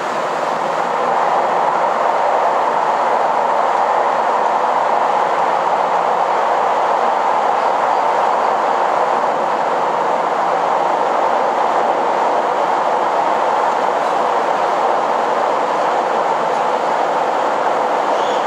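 Steady running noise of a KiHa 261 series diesel express train, heard from inside the passenger cabin, growing a little louder about a second in.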